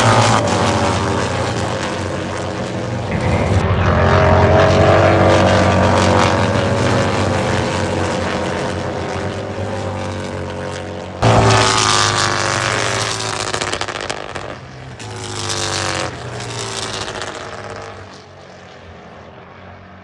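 Racing motorcycles passing at speed on a circuit, several passes in a row, each engine note dropping in pitch as the bike goes by. There is a sudden jump in the sound about eleven seconds in, and it dies away over the last couple of seconds.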